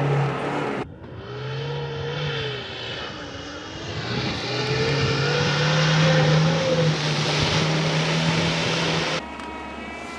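Off-road vehicle engine revving hard under load, its pitch rising and falling as it strains through rough ground. The sound breaks off abruptly about a second in and again near the end.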